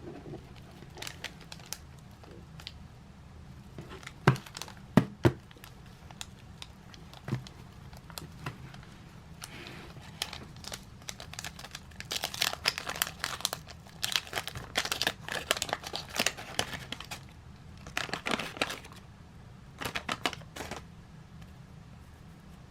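Trading card pack wrapper being torn open and crinkled by hand, in bursts through the second half. A few sharp knocks about four to five seconds in.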